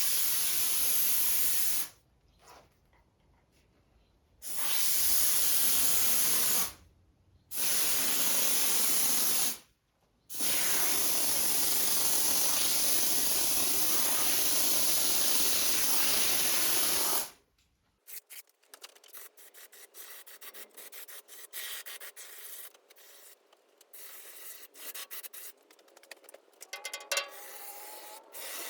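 Foam being sprayed from an aerosol can into the steel door panel to damp its ringing: four hissing bursts, the last about seven seconds long. After that come quieter scattered clicks and light knocks.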